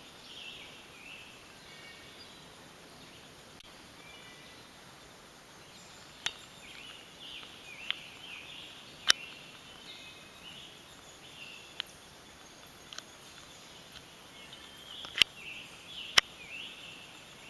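Birds chirping and calling in woodland: many short, high calls overlapping, with about six sharp clicks scattered through, the loudest a little past the middle and near the end.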